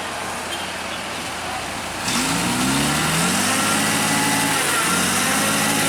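A truck engine running, then revving up about two seconds in: its pitch rises over a second and it holds at a higher, louder speed, easing off near the end.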